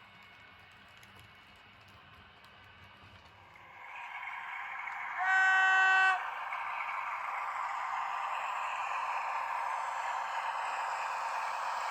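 Sound of a V160 diesel locomotive: running noise fades in, then the horn sounds once for about a second, loud, and the running noise carries on steadily.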